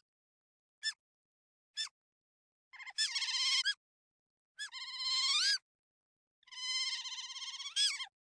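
An animal's call: two short chirps, then three fast warbling trills about a second long each, every trill ending in a brief rising sweep.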